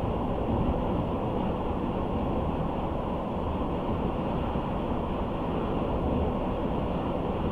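Steady road and tyre noise of a car driving at speed, an even low rumble with no sudden events.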